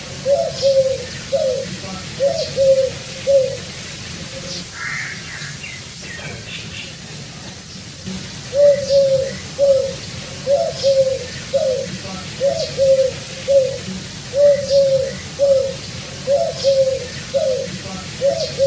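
Pigeon cooing in a steady run of short, repeated coos, pausing for a few seconds in the middle, with a brief higher chirp from another bird during the pause.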